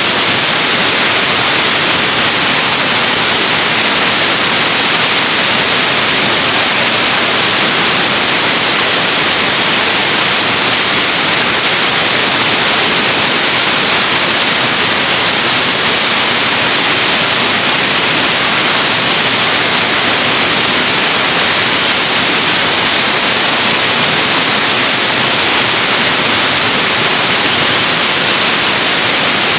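Waterfall: a loud, steady rush of falling water, an even hiss that does not change.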